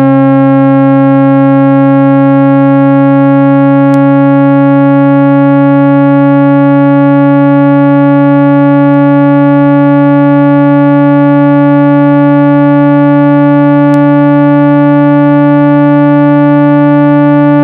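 Loud, steady electronic speaker-cleaning tone, a buzzy synthesized hum rich in overtones that rises very slightly in pitch, played to vibrate a phone speaker's diaphragm and push out water and dust.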